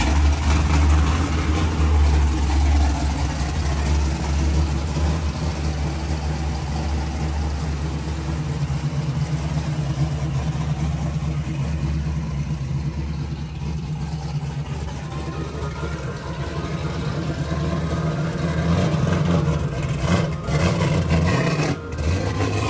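Chevrolet Chevelle's V8 engine catching suddenly and running with a deep, steady low idle as the car pulls slowly out and creeps across the lot.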